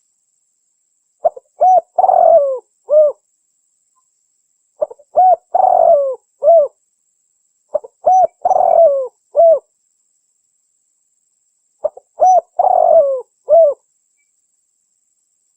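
Spotted dove (tekukur) song: four near-identical cooing phrases about every three and a half seconds, each a few short notes, a longer falling coo and a closing note, with silence between them, a call used to lure the doves.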